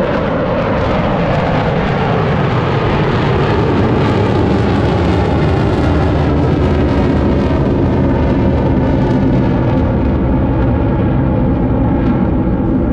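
Blue Angels F/A-18 Super Hornet jet engines as the jets fly over, a loud steady rush of jet noise whose hiss dulls near the end.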